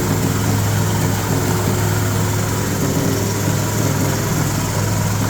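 Type 40 rice-husk grinding mill, driven by an 8 hp diesel engine, running steadily and loudly while grinding corn cobs through a 1 mm screen: a constant low engine hum under a dense, even grinding hiss.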